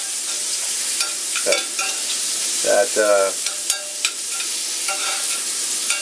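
Sliced mushrooms sizzling in butter and oil in a small cast iron skillet while a metal spoon stirs them, clicking and scraping against the pan. A brief pitched sound comes about halfway through.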